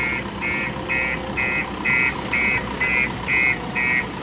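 JCB machine's reversing alarm beeping steadily, about two short high beeps a second, over its diesel engine running.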